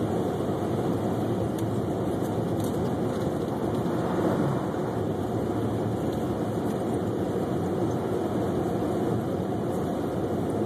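Steady road and engine noise inside a moving car's cabin, an even rumble of tyres and engine with no breaks.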